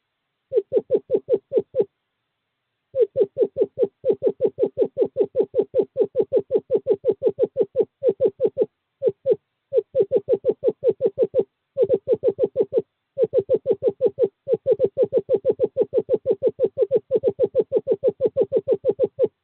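Screech owl trilling: long runs of rapid hoots at one steady pitch, about eight a second, broken by short pauses. This is a male's courtship trill calling a female to the nest box.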